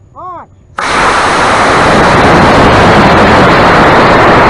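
C6-5 black-powder model rocket motor igniting under a shouted "Launch!": the sound cuts in suddenly under a second in as a loud, steady rushing hiss that keeps going at full strength as the rocket lifts off.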